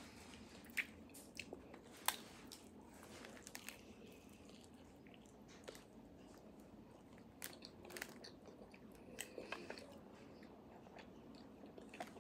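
Biting and chewing a fried empanada: scattered soft crunches and mouth clicks, one louder crunch about two seconds in and a denser run of them later on.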